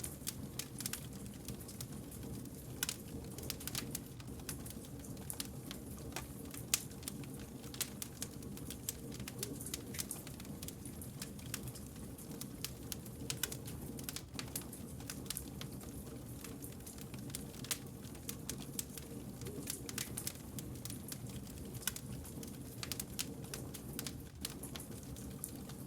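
Wood fire crackling, with frequent sharp pops and snaps at uneven intervals over a steady low rumble of the flames.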